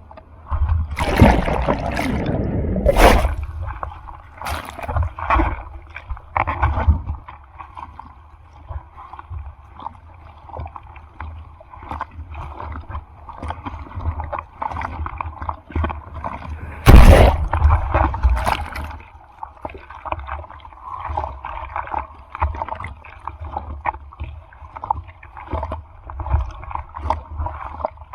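Rough sea water sloshing and splashing close by, with heavy splashes about a second in and again around seventeen seconds in.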